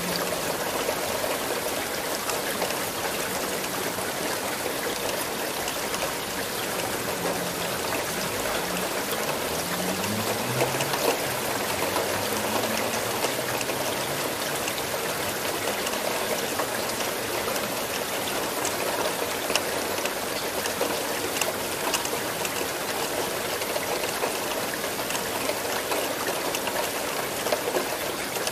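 Steady rain, a dense even hiss with many individual drops ticking close by.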